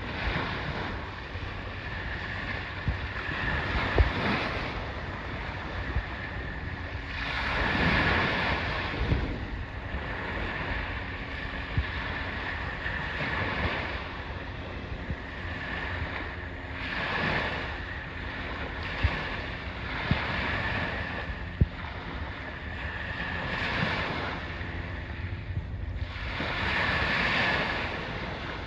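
Sea waves washing in and drawing back, swelling every three to four seconds, with wind rumbling on the microphone and a few sharp clicks.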